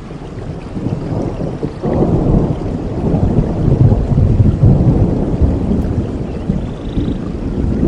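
Thunder rumbling over steady rainfall. The rumble builds about a second in, is loudest in the middle, and eases off toward the end.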